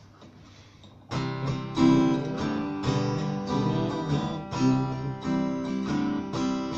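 Acoustic guitar strummed in a steady rhythm, starting suddenly about a second in after near quiet: the instrumental intro of a song.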